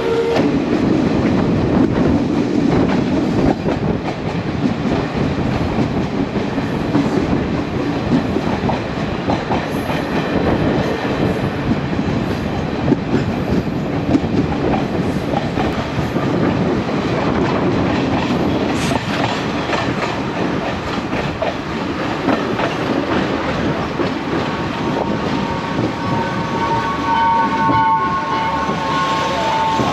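A moving passenger train heard from an open carriage doorway: the carriages run with a steady rumble and rattle, and the wheels click over the rail joints. A few high steady tones join in near the end.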